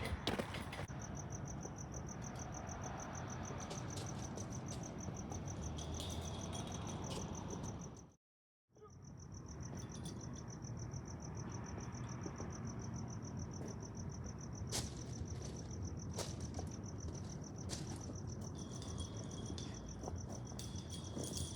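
A cricket trilling steadily in a rapid high pulse over a background hiss, with a few faint clicks. The sound cuts out completely for about half a second around eight seconds in, then the trill resumes.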